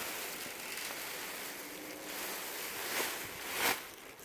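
Rustling as dresses are handled and moved, with two louder rustles about three and three-and-a-half seconds in.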